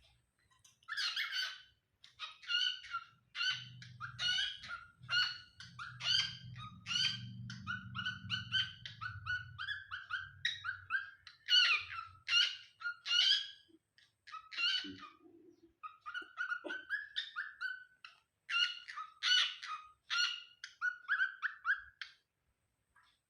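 Birds chirping: runs of short, sharp calls repeated in quick succession with brief pauses. A faint low hum sits under the calls for several seconds early in the run.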